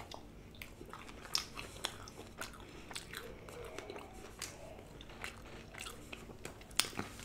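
Close-miked eating of ranch-dipped chicken wings: biting into a wing, then chewing with irregular wet mouth clicks and smacks, one sharper click near the end.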